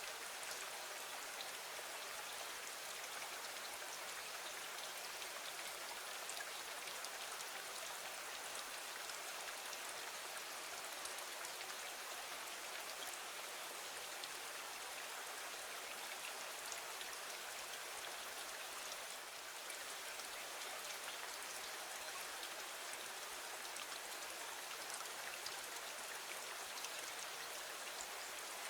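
Gentle steady rain falling against a window: an even hiss of many small drops with fine ticks, unchanging throughout.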